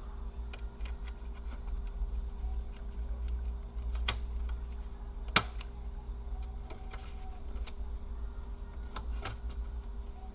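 Scattered small clicks and taps of plastic laptop parts being pried with a sharp tool and handled, the sharpest click about five seconds in, over a steady low hum.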